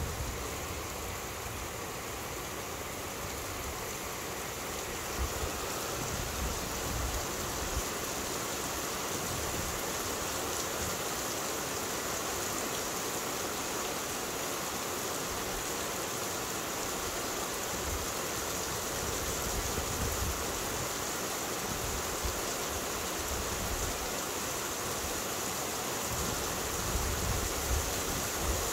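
Heavy thunderstorm rain falling steadily, an even hiss of rain on the street and roofs, with a low rumble now and then.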